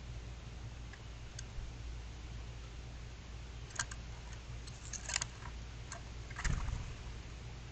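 A few light clicks and taps over a steady low hum, the loudest tap about two-thirds of the way through.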